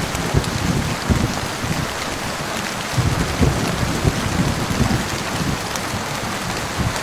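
Steady heavy rain hissing, with low thunder rumbling that swells near the start and again from about three seconds in.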